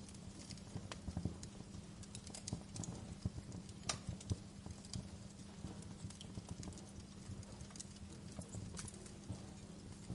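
Fire crackling, with irregular pops and snaps over a steady low rumble of flames; one sharper pop about four seconds in.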